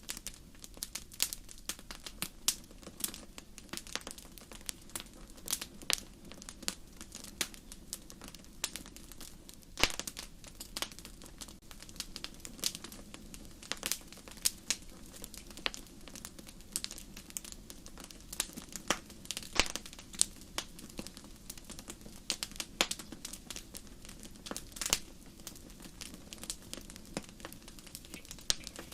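Wood fire burning in a fireplace: irregular sharp crackles and pops, often several a second, over a low steady sound of the flames.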